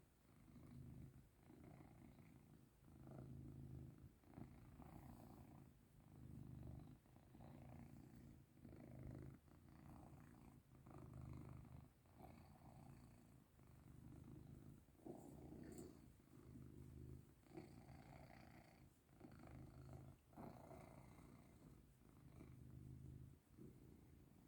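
British Shorthair cat purring while being rubbed, a low purr that swells and fades with each breath, about every second and a half.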